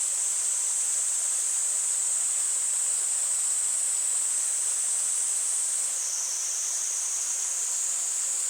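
Cicadas singing in a steady, high-pitched chorus that drops slightly in pitch about six seconds in, over a faint rush of stream water.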